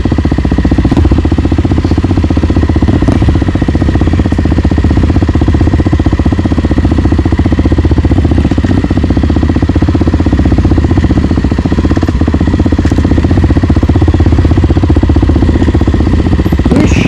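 Single-cylinder four-stroke trail motorcycle engine running steadily at an even, low throttle, with no revving.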